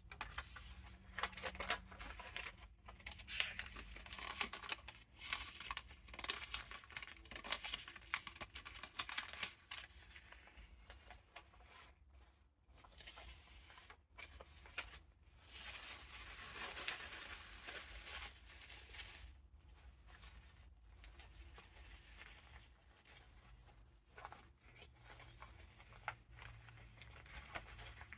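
Paper pages and tucked-in paper ephemera of a handmade junk journal rustling and crinkling as they are handled and turned, with small taps and ticks and a longer rustle about halfway through.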